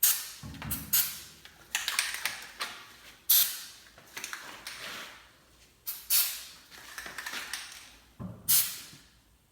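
Aerosol can of lithium grease spraying in about seven short hissing bursts onto garage door hinges, lubricating the metal-on-metal joints to stop them squeaking.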